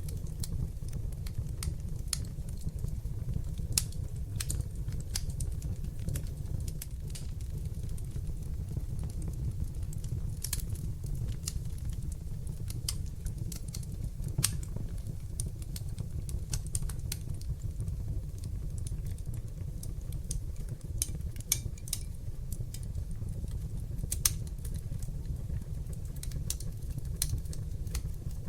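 Wood fire burning in a fireplace: sharp, irregular crackles and pops, several a second, over a steady low rumble of the flames.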